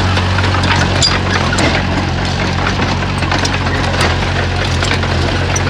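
Komatsu bulldozer's diesel engine running steadily under load, with irregular sharp cracks and clanks of rock and steel tracks over it.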